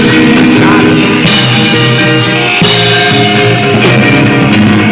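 Live rock band playing loud, with guitar and a drum kit; the sound drops out briefly about two and a half seconds in, then comes back in.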